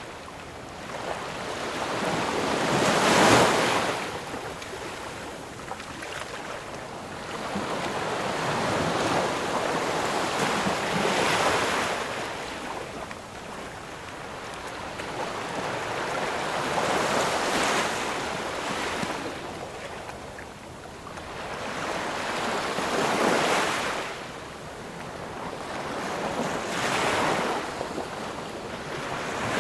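Sea surf: about five waves breaking and washing in one after another, each a rush of noise that swells and falls away over a few seconds, the loudest about three seconds in.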